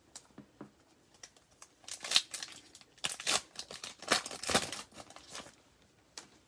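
A foil trading-card pack being torn open, the wrapper crinkling and tearing in a few short bursts about two, three and four seconds in, with light clicks and rustles of cards being handled.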